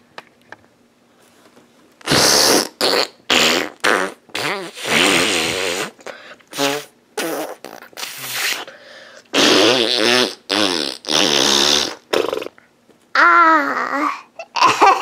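About a dozen fart noises in quick succession, loud blasts with a buzzing pitch, from about two seconds in to about twelve seconds in; they stand for the pretend-constipated baby doll finally pooping. Near the end comes a high voice sliding up and down in pitch.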